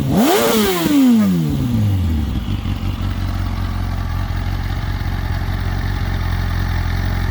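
Yamaha R1 inline-four motorcycle engine given one quick rev through the exhaust. The revs rise sharply and fall back within about two seconds, then it idles steadily.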